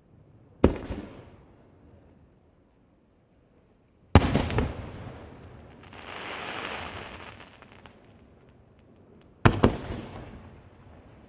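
Aerial firework shells bursting: three sharp booms, about a second, four seconds and nine and a half seconds in, each dying away in an echoing rumble. Between the second and third booms a drawn-out hiss swells and fades.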